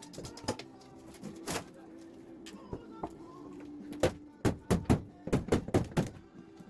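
Hammer blows on a wall during demolition: a few scattered knocks, then a quick, irregular run of strikes from about four seconds in, over a faint steady low tone.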